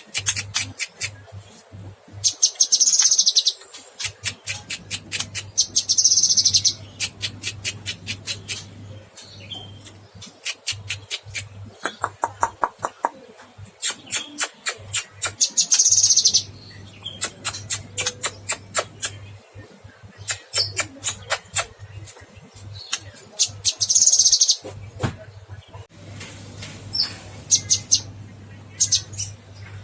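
Cucak kinoy songbird singing energetically in long rapid trains of sharp repeated notes, broken by several short, high buzzy bursts. A faint steady low hum runs underneath.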